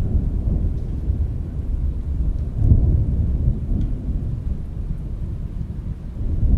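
Rolling thunder rumbling low and continuously, swelling about three seconds in, over heavy rain with faint scattered drop ticks on a window.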